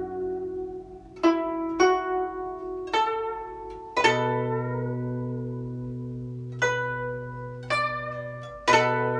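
Guzheng played solo: single plucked notes ring out one after another with long sustain. About four seconds in, a low bass note is struck and rings on under the higher notes.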